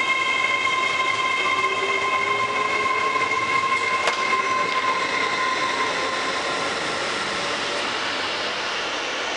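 A train running through the station with a steady high-pitched wheel squeal in two tones over the rolling noise, the squeal fading out about six seconds in while the rumble carries on; a single sharp click about four seconds in.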